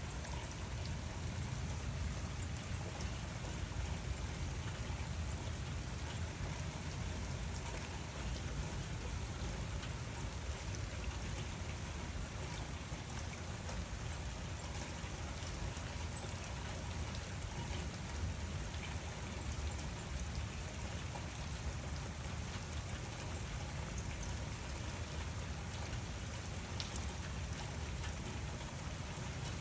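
Steady rain falling, an even hiss of drops with occasional sharper single drops.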